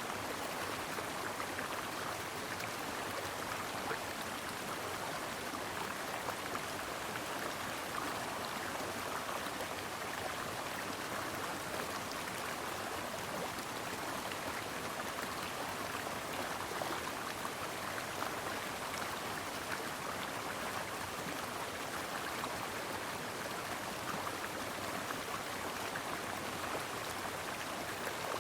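A brook babbling and splashing over stones: a steady, even rush of running water that does not change.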